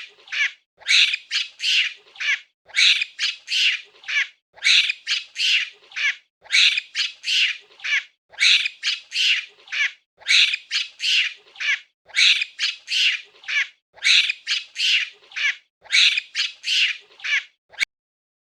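Monkey giving a long run of short, high-pitched calls in quick bouts of three or four, about three calls a second, which stops abruptly near the end.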